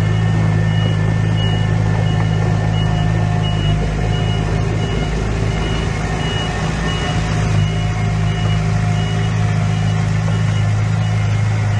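Diesel engine of a heavy construction machine running steadily, with a high-pitched reversing alarm beeping at an even pace, a little under two beeps a second, as the machine backs up.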